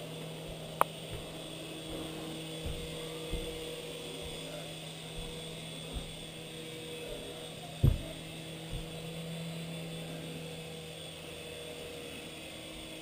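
Small electric RC helicopter (WLtoys V319) running, its motor and rotor giving a steady hum with a thin high whine. A few light knocks, one about a second in and a louder one near the middle.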